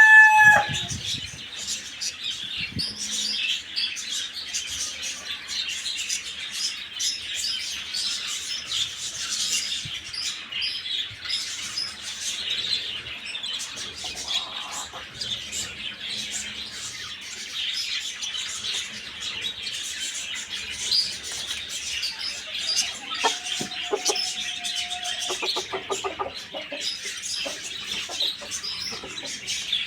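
Many small birds chirping together in a steady, busy chorus. A rooster's crow ends in the first moment, and a lower call from another bird is heard about three quarters of the way through.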